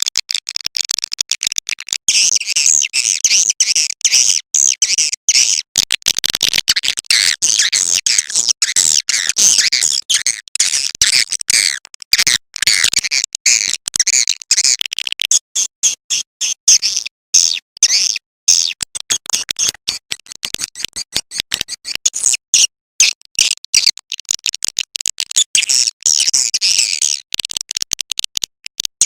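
Swiftlet lure call: a recording of swiftlets twittering, rapid high chirps packed densely together and broken by many very short gaps.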